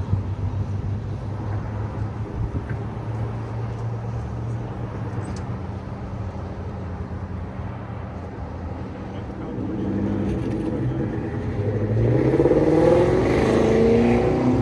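A car engine running at a low, steady idle, then a car engine speeding up, its pitch rising and the sound growing loudest near the end.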